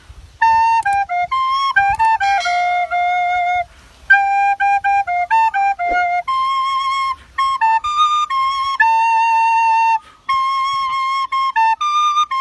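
A flute-like wind instrument playing a melody that imitates an ice cream three-wheeler's jingle: a tune of quick short notes and longer held ones, with brief pauses about four seconds and ten seconds in.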